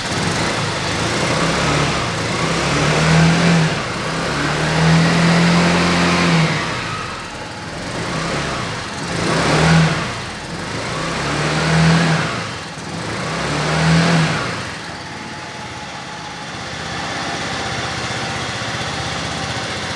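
Lexmoto Titan 125 scooter's single-cylinder four-stroke engine running, the throttle blipped about five times so the revs rise and fall, then settling back to a steady idle for the last few seconds.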